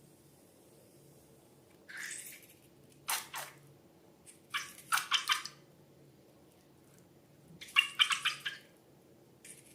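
Slime squelching and crackling wetly in several short bursts, the loudest about eight seconds in.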